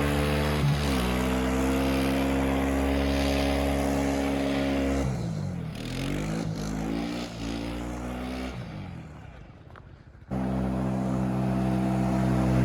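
A vehicle engine running at steady revs. About five seconds in, the revs drop and waver and the sound dies down. Near the end it comes back abruptly at steady revs.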